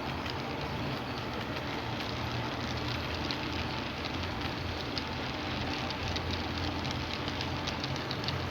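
HO-scale model train with a model C36 locomotive running along the track. It makes a steady low motor hum with many small, irregular clicks from the wheels on the rails.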